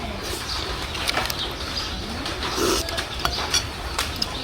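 Eating sounds: a run of sharp clicks and clinks of utensils and snail shells against dishes, with a few short, low gliding calls in the background.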